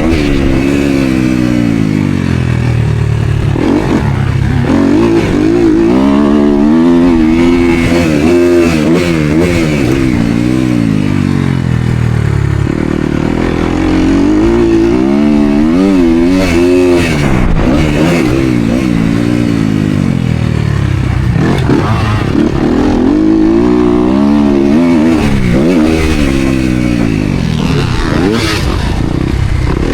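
Motocross dirt bike engine revving hard and falling back again and again as it is ridden around the track, its pitch climbing through each gear and dropping off between.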